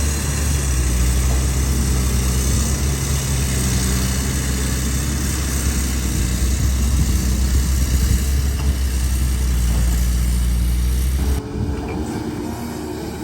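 Excavator's diesel engine running steadily, a deep even drone. Near the end the sound changes abruptly to a quieter, higher-pitched machine sound.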